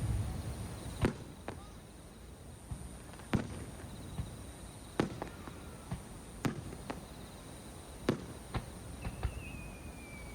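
Fireworks shells bursting: sharp bangs every one to two seconds, and near the end a whistle sliding down in pitch.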